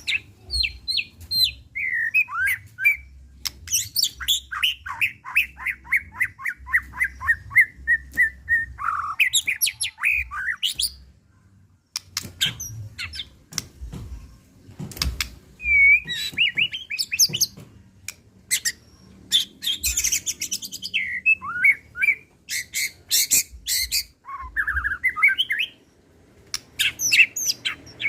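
A white-rumped shama (murai batu) sings an agitated, full-repertoire song of varied whistles, sharp clicks and rapid trills. About four seconds in comes a long run of quick notes falling steadily in pitch. There is a brief pause before the middle.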